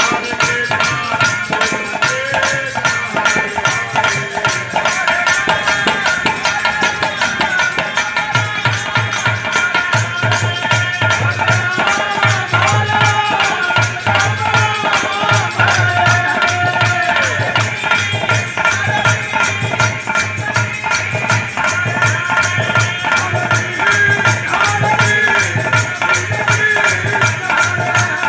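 Devotional Hari kirtan music: fast, steady rattling percussion with a melody over it, and a regular deep drum beat that joins about eight seconds in.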